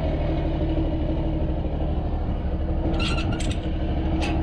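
Diesel truck engine idling steadily, with a few sharp metallic clinks from the tie-down chains and binders about three seconds in and again near the end.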